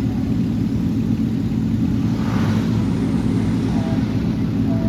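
Motor vehicle engine running steadily, with a brief rush of noise about two seconds in.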